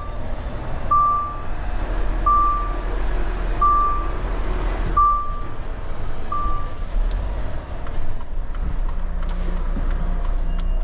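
Lorry's reversing alarm sounding single high beeps about every 1.3 seconds, over the low steady running of the lorry's diesel engine; the beeps stop a little after halfway through.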